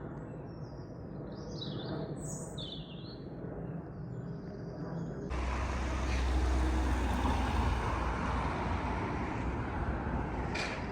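Small birds chirping over a steady street background. A little over five seconds in, the sound cuts abruptly to a louder, steady noise with a low rumble, and the chirping is no longer heard.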